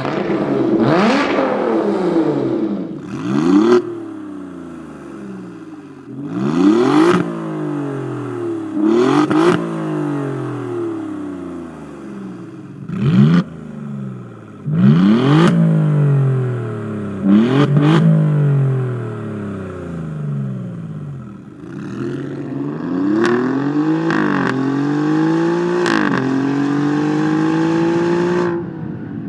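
Alfa Romeo Giulia Quadrifoglio's twin-turbo V6 revved through its exhaust, again and again: each rev shoots up in pitch and falls back, sharp and loud at the peak. Near the end the revs climb more slowly and are held higher, in steps.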